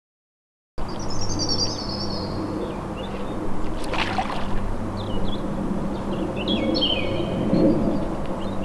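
Silence for under a second, then small birds chirping and singing over a steady low rumble with a faint hum, with a single short sharp sound about four seconds in.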